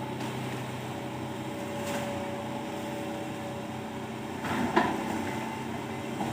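Excavator engine running steadily with a thin steady tone over it, and one sharp knock about three-quarters of the way through.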